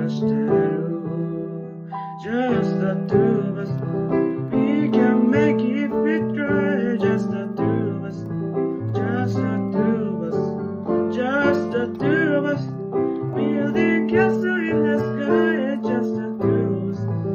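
Keyboard music: electric piano chords with a melody line that bends in pitch over them.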